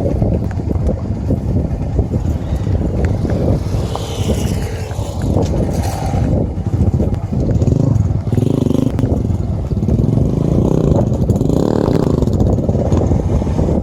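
Small motorcycle engine running while riding, its pitch rising and falling with the throttle in the second half, with wind noise on the microphone.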